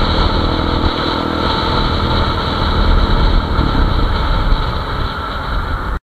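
A motorcycle engine running steadily, with a low rumble and road or wind noise, that cuts off suddenly near the end.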